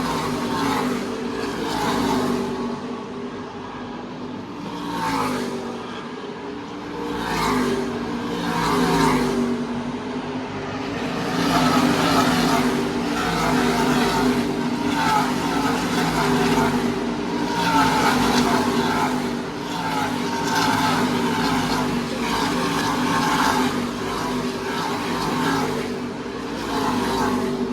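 NASCAR Camping World Truck Series race trucks' V8 engines running at speed, one after another passing, each pass swelling and falling away in pitch and loudness.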